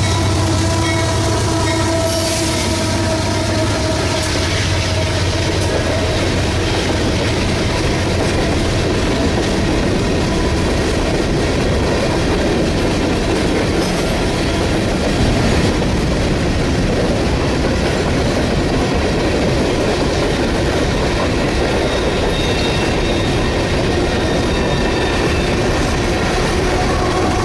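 A train rolling past close by: a steady loud rumble and clatter of rail cars' wheels on the track. There are faint steady tones in the first few seconds.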